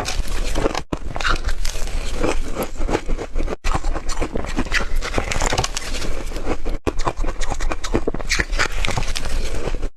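Hard refrozen ice being bitten and chewed close to the microphone: dense, irregular crunching and crackling, cut by three very brief dropouts.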